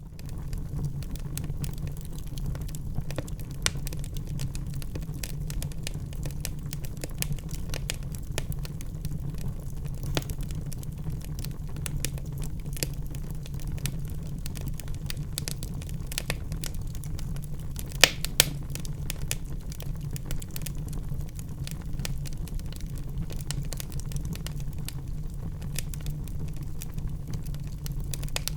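Wood fire burning in a fireplace: constant irregular crackling over a low steady rumble, with two sharper, louder pops in quick succession about two-thirds of the way through.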